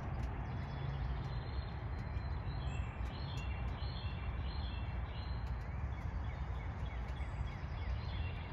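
Birds chirping in short repeated notes over a steady low rumble and hiss.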